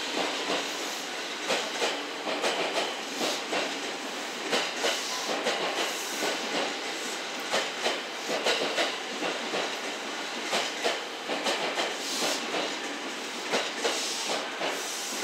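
JR West 227 series electric multiple unit rolling past along a station platform, its wheels clacking irregularly over the rail joints and points.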